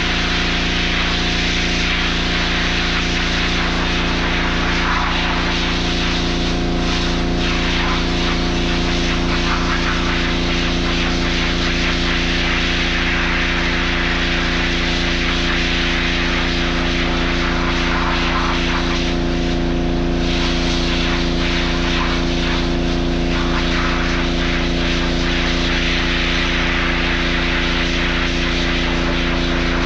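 Small engine running steadily at one constant speed, with a broad hiss over its hum.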